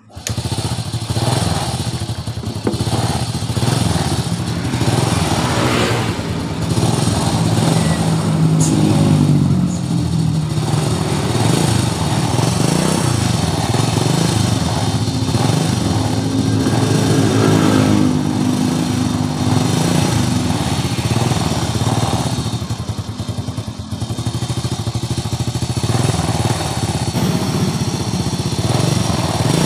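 A 2001 Honda Supra X's single-cylinder four-stroke engine catches just after the start and runs at idle. Its pitch rises and falls a couple of times with the throttle. Under the engine note is a rough, clattery rattle from around the cylinder head, which the mechanic puts down to the cam chain, its tensioner roller or the valve clearance.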